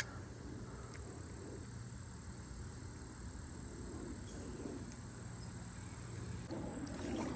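An insect trilling steadily at one high pitch, faint, over a soft low background noise.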